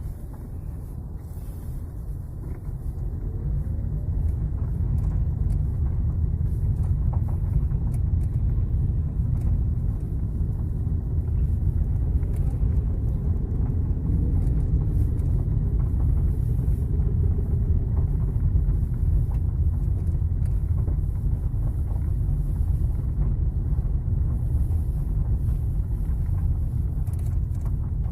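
Cabin noise of a 2017 Kia Rio driving over an uneven road: a steady low rumble of tyres and suspension with a few faint knocks scattered through it. It was recorded to capture a foreign noise that the owner hears coming from under the steering wheel.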